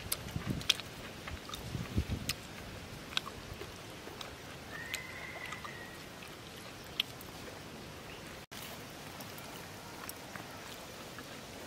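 A person chewing food with small wet clicks and lip smacks, over steady outdoor background noise. A brief faint high tone comes about five seconds in.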